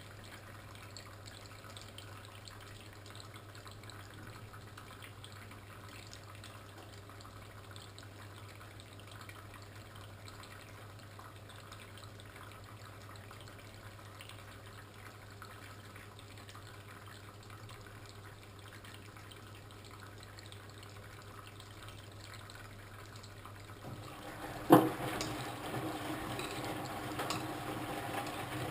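Old washing machine partway through its cycle: a steady low hum with faint water trickling, then a sharp click near the end and water running in louder.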